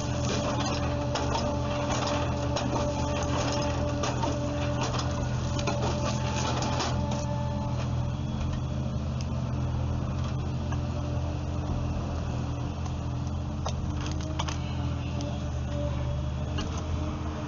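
Wood-processing machinery running with a steady low hum, overlaid by rapid clattering knocks that thin out about seven seconds in.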